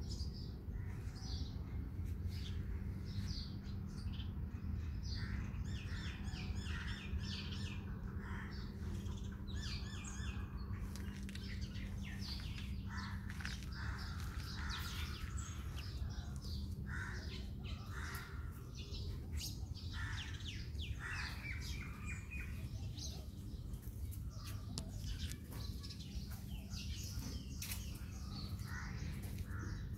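Garden birds chirping and calling over one another: many short chirps and quick runs of notes. A steady low hum runs underneath.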